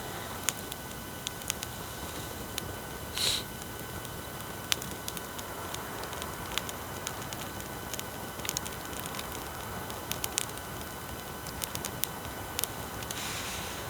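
Wood bonfire crackling, with irregular sharp pops and snaps over a steady background hiss from noisy recording equipment.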